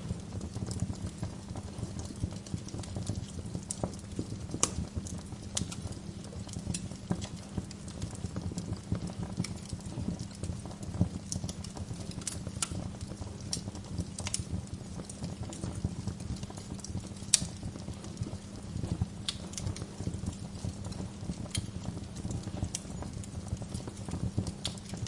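Wood fire burning in a fireplace, with a steady low rumble of flames and frequent irregular crackles and sharp pops from the logs, a few of them noticeably louder.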